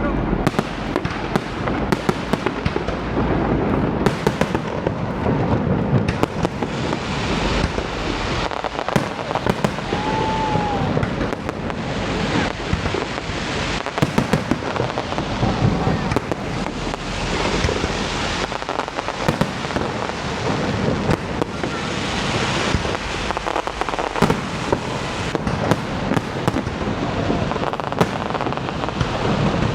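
Fireworks display: a dense, continuous run of booms and crackling shell bursts that overlap one another.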